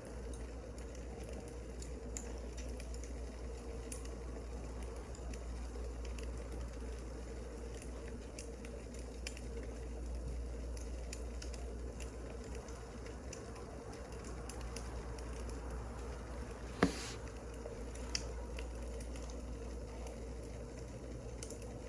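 Wood fire crackling, with small scattered pops over a steady low hum and one sharper pop about three-quarters of the way through.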